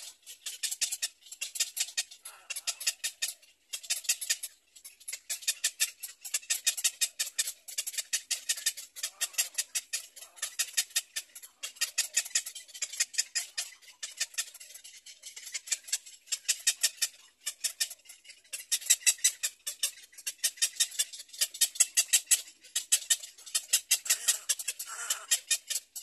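A bird's rapid clicking chatter, in bouts of a second or two with short pauses between.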